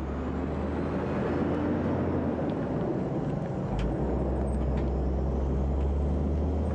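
Multi-trailer road train driving, its diesel engine giving a steady low drone under road noise.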